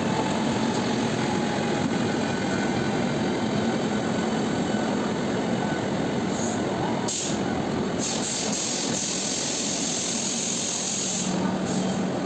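A train running, with a steady rumble and a low hum; a high hiss comes in over it for a few seconds in the second half.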